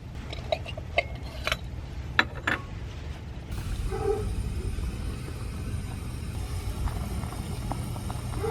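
A few sharp clicks and knocks in the first part. Then a steady hiss starts abruptly, and a cat meows briefly, once a little past the middle and again at the end.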